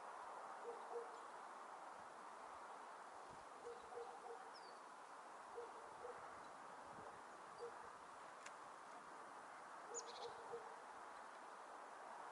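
Faint bird calls: soft, low, short notes in small groups of two or three, with a few thin high chirps between them.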